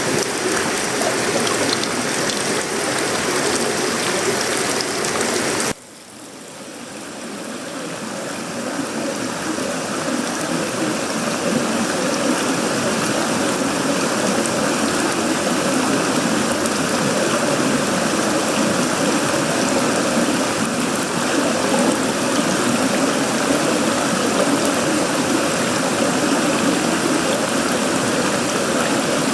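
Heavy tropical rain falling on sheet-metal roofing, wood and leaves, a dense steady hiss. About six seconds in the sound drops away abruptly, then swells back to full strength over the next several seconds.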